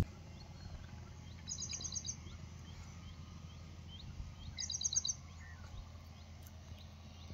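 A bird calling twice, each call a quick run of about five high notes, with fainter chirps in between, over a low steady rumble of outdoor background.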